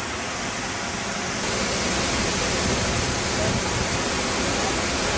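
Waterfall rushing as a steady, even roar of water. It gets suddenly louder and brighter about a second and a half in.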